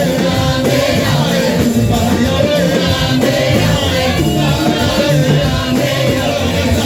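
Live worship music with singing and a band, with a steady beat.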